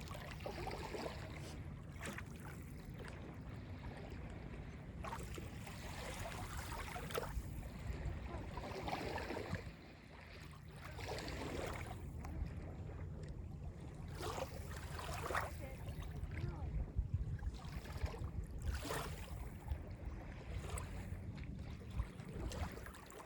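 Small Lake Ontario waves lapping and washing onto the beach in repeated surges with light splashes, over a steady low rumble.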